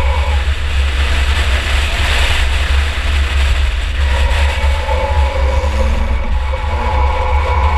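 Engine of a 2004 Chevy Impala enduro race car running under way, heard from inside the car: a heavy, steady low rumble over road and rattle noise, with a whining tone that fades and comes back about four seconds in.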